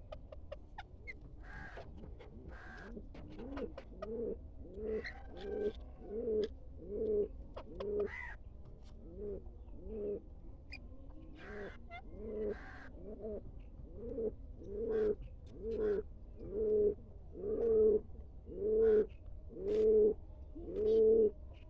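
A pigeon cooing over and over, about one coo a second, the coos growing louder through the series. A few short, higher chirps come before the cooing starts.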